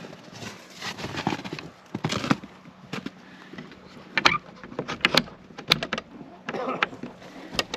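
A stiff door latch being worked open: scattered sharp clicks and knocks, several together about four to six seconds in and another near the end, between softer scraping and handling.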